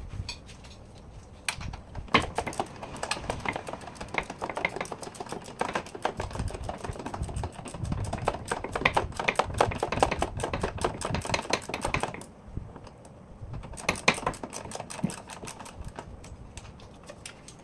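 Rapid metallic clicking and clinking of hand tools working on a car, in two runs with a pause about twelve seconds in.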